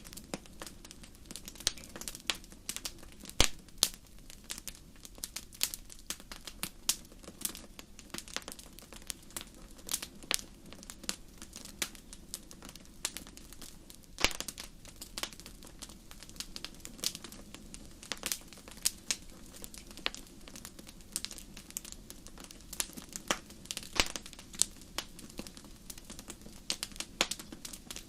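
Wood fire crackling in a fireplace: irregular sharp pops and snaps, a few louder ones, over a soft steady rumble of the flames.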